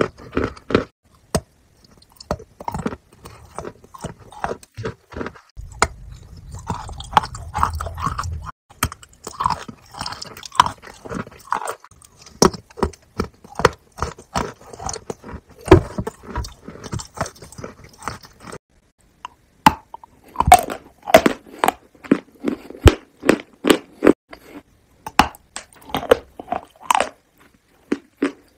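Close-miked mouth sounds of a person eating food off her fingers: chewing, wet smacking and sharp lip and tongue clicks, with two brief pauses.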